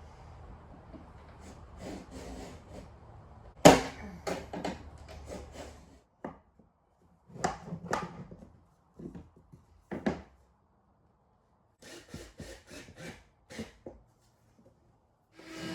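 Flooring planks being handled and fitted: scraping and rubbing with scattered knocks, the loudest a sharp knock about four seconds in.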